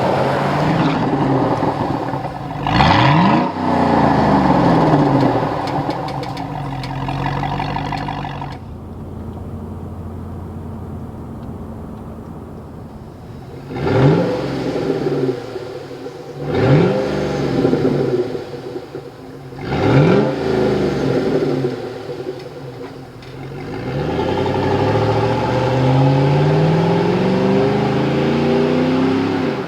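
Chevrolet Avalanche V8 through a Corsa Sport-level 3-inch stainless cat-back exhaust: a throttle blip, a stretch of low idle, then three sharp revs a few seconds apart, and a long rising pull near the end.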